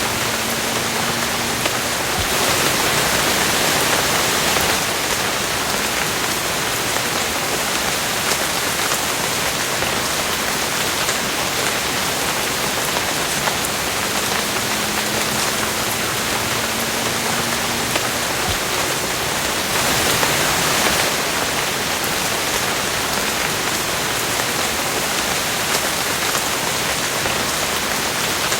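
Steady rain falling as an even hiss, swelling louder for a couple of seconds about two seconds in and again about twenty seconds in.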